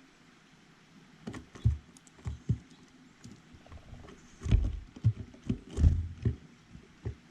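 Irregular knocks and taps on a bird feeder close to the microphone, a dozen or so, loudest in the middle, as visitors land, shift and peck.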